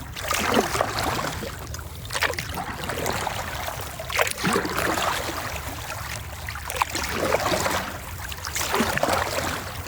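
Paddle strokes in water from a stand-up paddleboard: a swish and trickle of water that swells about every two seconds.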